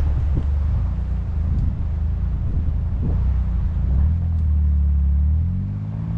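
Small vehicle engine running steadily while driving through deep snow; near the end its pitch dips, then rises again.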